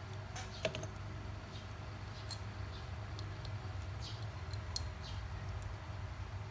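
Scattered light clicks and ticks of small metal tools being handled and set down at a repair bench, over a steady low hum.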